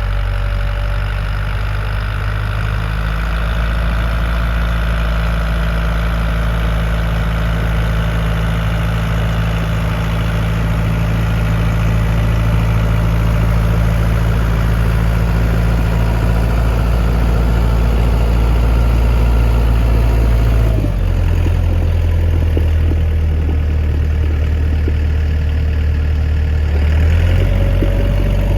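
Lovol tractor's diesel engine running steadily under a thin whining tone. About two-thirds through, the engine note drops and the whine stops. Near the end the whine comes back, rising.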